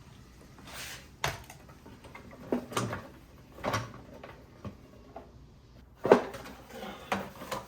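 Scattered knocks and clicks of parts being handled as a lawnmower engine's shroud is fitted back on, the loudest knock about six seconds in.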